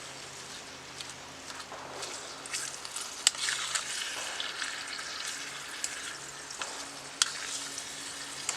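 80/20 ground beef sizzling as it fries in a pan, the sizzle growing louder about two and a half seconds in, with a few sharp clicks along the way.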